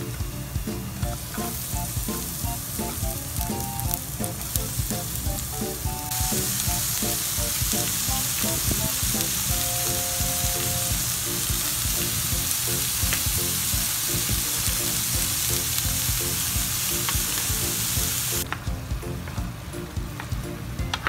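Chicken pieces and onion sizzling in oil in a nonstick frying pan, stirred with a wooden spatula. The sizzle grows louder about six seconds in and drops back a couple of seconds before the end.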